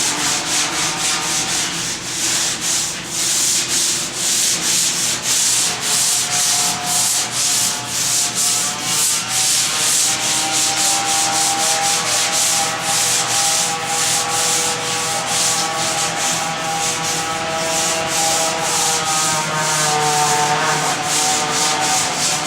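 Primer on a truck hood being block-sanded by hand with large flat sandpaper: steady back-and-forth strokes of paper rubbing over the primed panel, about two to three a second, knocking down the primer's slight thickness for a flat, even finish.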